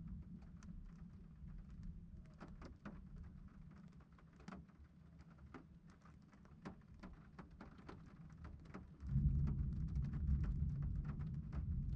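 Raindrops ticking one by one over a low rumble during a thunderstorm. About nine seconds in, a much louder low rumble of thunder sets in suddenly and carries on.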